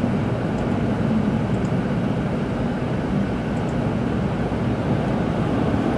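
Steady low rumble of a Tokaido Shinkansen car running along the line, heard from inside the cabin, with a faint hum under it.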